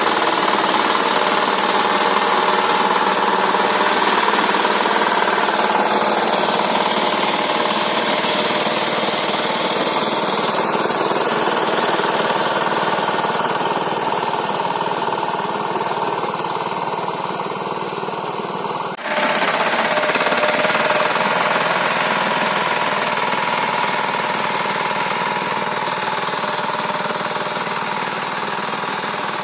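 Walk-behind tractor engine running steadily with a knocking chug while its rotary tiller churns garden soil. The sound dips sharply for a moment about two-thirds of the way through, then carries on.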